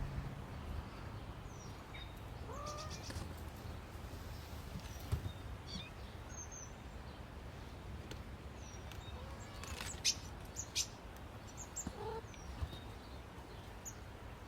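Birds chirping: scattered short, high calls over a steady low background rumble, with a couple of lower, curving calls about two and a half seconds in and near twelve seconds.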